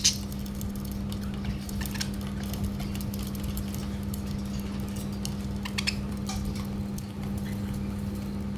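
Budgies pecking and tapping at a food plate: scattered small clicks and taps over a steady low hum.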